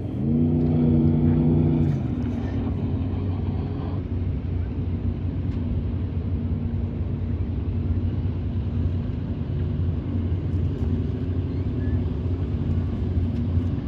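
Speedboat engine running: a rising engine note in the first two seconds, the loudest part, then a steady low drone.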